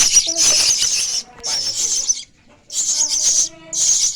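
Young starlings calling harshly in four raspy bursts of about a second each, with short gaps between them.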